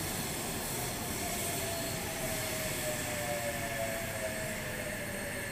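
H-set (Oscar) double-deck electric train running alongside the platform: a steady rumble of wheels and car bodies, with a thin whine that slowly falls in pitch.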